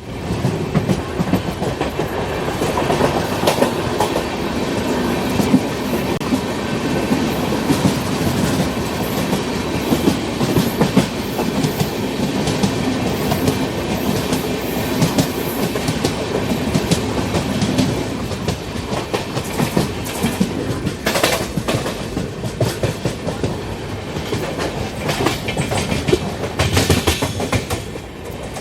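Shatabdi Express passenger train running on the track: a steady rumble with wheels clattering over the rail joints in a clickety-clack, and a few sharper, louder clacks in the last third.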